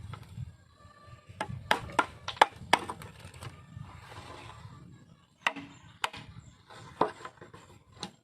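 Hammer striking a nail into bamboo: a quick run of about five sharp knocks, then four more spaced-out blows.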